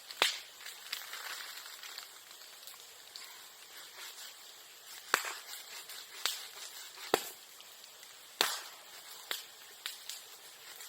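Bonfire of bamboo and bamboo grass crackling, with several sharp, loud pops as bamboo stems burst in the heat like firecrackers, and smaller ticks between them.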